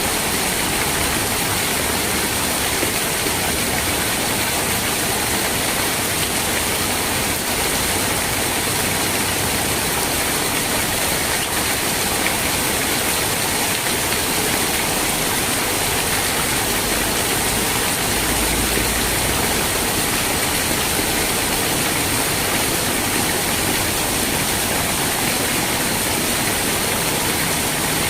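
Steady, dense rainfall: an even wash of rain noise that holds the same level throughout.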